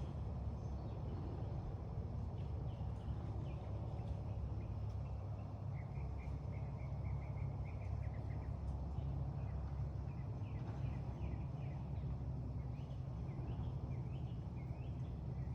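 Small birds chirping, with a short trill about six seconds in, over a steady low rumble of outdoor background noise.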